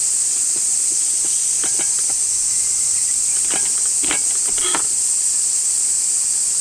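Steady, high-pitched chorus of cicadas. A few short clicks and rustles of handling sound over it in the middle.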